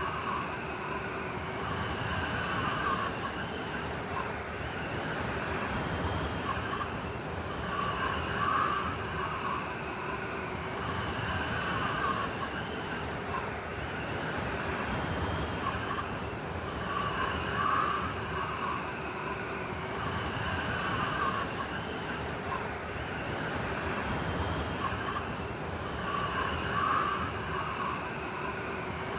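Blizzard wind howling steadily, with whistling gusts that swell and fade about every nine seconds.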